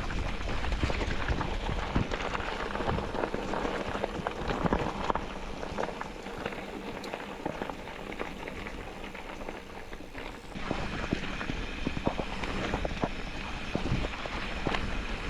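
Tyres rolling over a stony dirt track, a dense crackle and rattle of small stones under a steady rush of noise. The sound shifts abruptly about ten seconds in.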